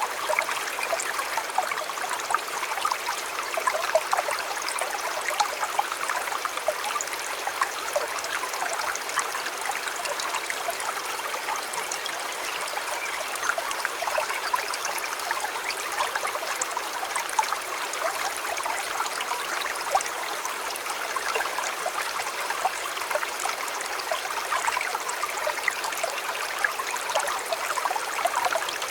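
River water flowing steadily, a constant rush with many small splashes and no pauses.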